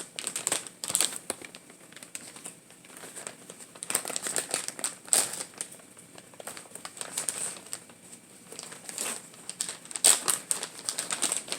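Plastic packaging crinkling and crackling in irregular bursts, the sound of a bag of shredded cheese being handled.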